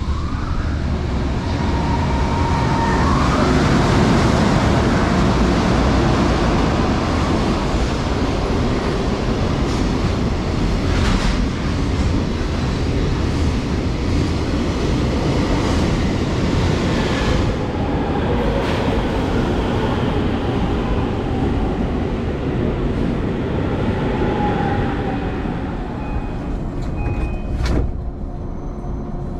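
Train running on the rails: a loud, steady rumble with rail noise. A rising whine comes near the start, and a few short squeals and clicks come later.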